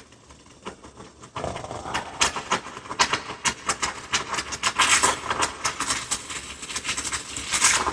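Steam wand of a Moritz MO-EM1000G espresso machine still sputtering after being switched off, spitting in fast irregular crackles that start about a second and a half in. Residual steam pressure keeps it gushing out air, so the frothing milk overflows.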